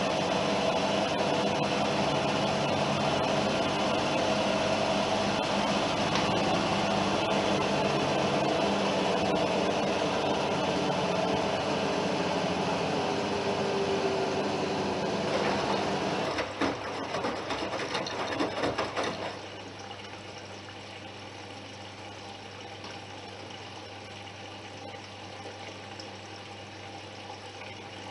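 Bosch Serie 6 washing machine pumping water, a steady rush with a pump hum. It turns uneven and gurgly about 16 s in, then drops to a quiet hum about 19 s in.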